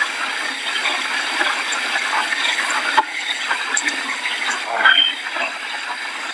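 Steady rushing of heavy hurricane rain and wind.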